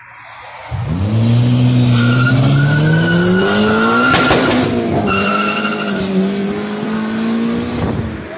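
Honda Integra's four-cylinder engine revving hard as the car launches, its pitch climbing for about three seconds, breaking near the middle, then holding steady. Tyres squeal in two stretches as the wheels spin.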